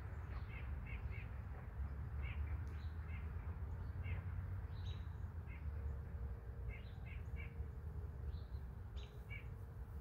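Small birds chirping in short calls, often in twos and threes, over a low steady rumble. A faint steady tone comes in about halfway through.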